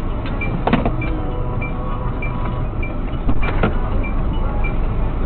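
Car running with steady engine and road rumble, heard as from a dashcam, with two sharp knocks, one near the start and one about three and a half seconds in, and a faint high beep repeating at uneven intervals.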